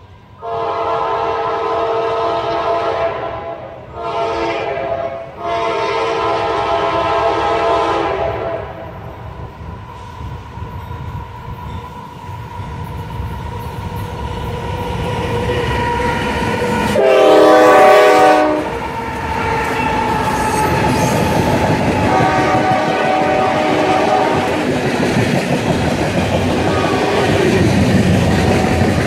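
A freight locomotive's air horn sounds several blasts as the train approaches: two long, with a short one between them. A much louder blast comes about halfway through, and a fainter one after it. Under the horn, the rumble and clickety-clack of loaded coal hopper cars rolling past grows louder.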